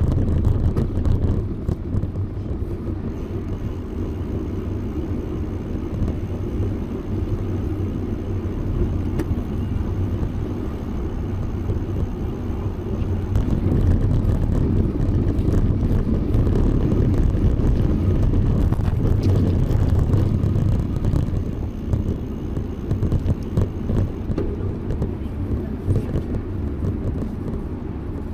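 Steady low rumble of wind and road noise on the microphone of a moving bicycle, growing louder for several seconds about halfway through.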